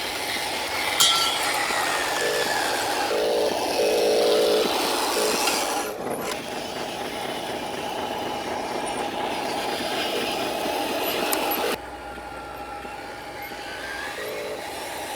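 Radio-controlled Scania-style truck running, its motor and gears whirring over a dense noisy background. The sound changes abruptly twice, about six and twelve seconds in.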